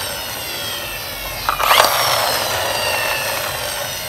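Toy school bus's wheels and gears whirring, the pitch falling slowly as they spin down, then a short clatter about halfway through as it is set going again and the whir restarts higher.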